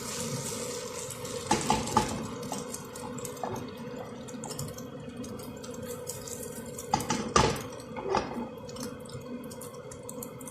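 Beaten-egg omelet frying in hot oil in a pan, with light, steady crackling. A utensil clatters against the pan about two seconds in and again around seven to eight seconds, over a steady low hum.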